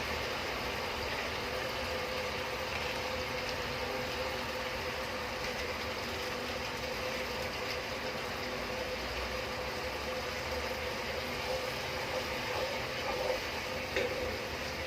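Steady rushing noise of a pot of spice masala cooking on the stove, with a faint steady hum and a few light clinks near the end.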